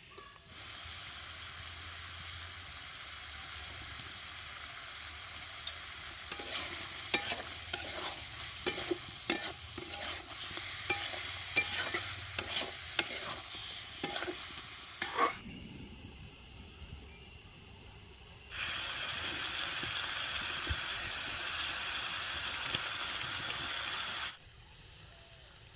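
Food sizzling as it fries, with a utensil stirring it: a run of quick scrapes and clinks against the cooking vessel through the middle. Later a louder, steady sizzle starts suddenly and cuts off just as suddenly.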